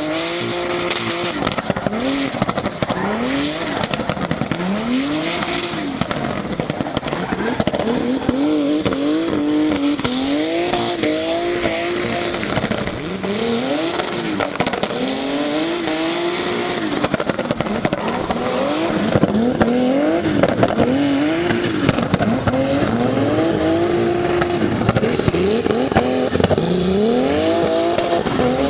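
Turbocharged BMW E46 drift car at full effort: the engine revs rise and fall again and again as the throttle is worked, over continuous tyre squeal.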